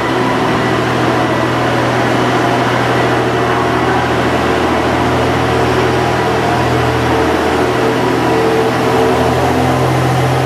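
A train standing at a station platform, its engine or onboard equipment humming steadily at an even level, with a low drone that swells slightly near the end.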